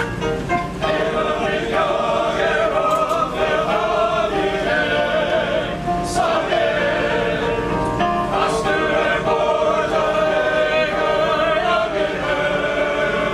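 Male chorus singing a song together in several voice parts.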